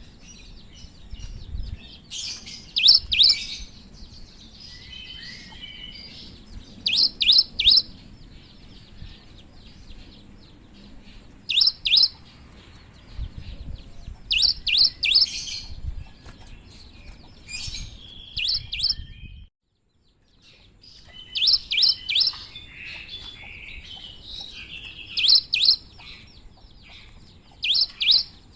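Cinereous tit (gelatik batu) singing: short phrases of two to four sharp, high whistled notes repeated every few seconds, with softer twittering between them. The sound drops out completely for a moment about two-thirds of the way through.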